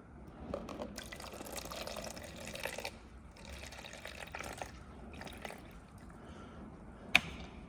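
Water being poured into a mixing cup, filling it in uneven trickles, strongest in the first three seconds and fainter after. A single sharp click near the end.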